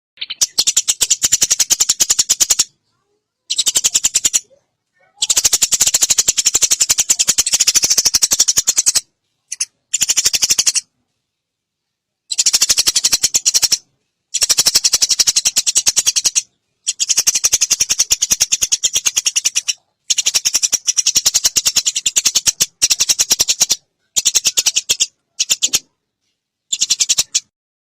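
Eurasian tree sparrow chattering in rapid, high chirps, coming in bursts of one to three seconds broken by short silent gaps.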